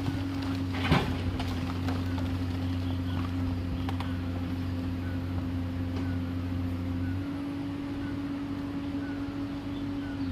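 Komatsu PC210LC excavator's diesel engine running steadily, with a sharp knock about a second in and a slight change in its note about seven seconds in.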